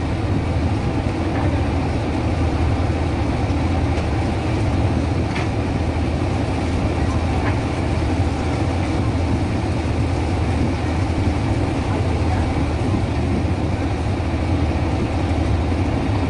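A fishing boat's engine running steadily with a low, even rumble, and a couple of faint knocks about five and seven seconds in.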